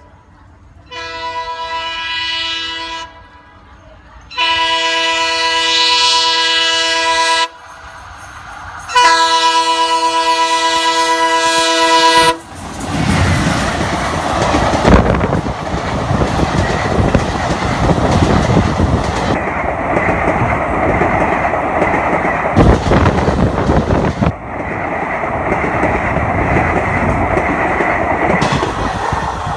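Multi-tone air horn of an ALCO-design WDM-3A diesel locomotive sounding three long blasts. About twelve seconds in, the express train sweeps past close by at speed: a loud, steady rush of engine and coaches, with wheels clattering over the rail joints.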